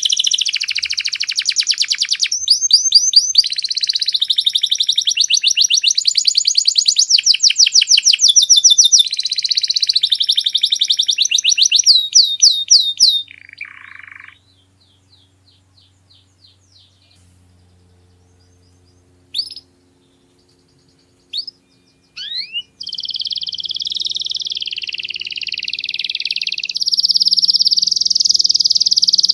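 Domestic canary singing in long, rapid trills that switch pitch every second or two. About halfway through the song breaks off for several seconds with only a few faint chirps, then resumes with long sustained trills.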